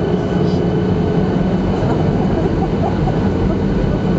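Boeing 737-800's CFM56 jet engines running during the start of a takeoff: a steady, loud rumble with a steady whine over it.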